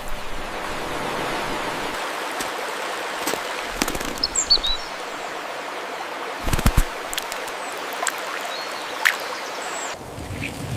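Steady rush of running water with scattered small splashes and drips, and a few short high bird chirps about four seconds in and again near the end.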